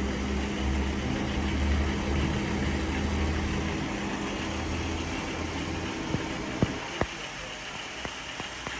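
A steady low engine hum that fades away after about five seconds, followed by three sharp knocks.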